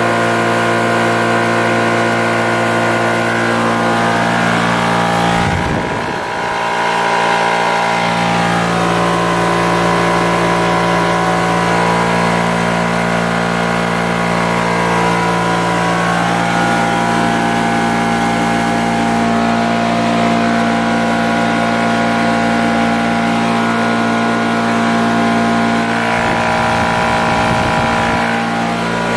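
High-pressure PCP air compressor running steadily, a constant motor hum with several even tones, dipping briefly about six seconds in.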